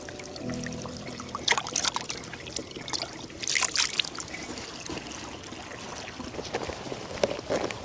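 Water trickling steadily, with scattered rustles and knocks of handling; a low musical note fades out in the first second or so.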